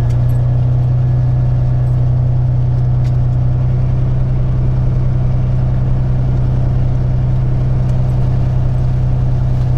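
Peterbilt 379's diesel engine idling steadily, a constant low drone heard from inside the cab.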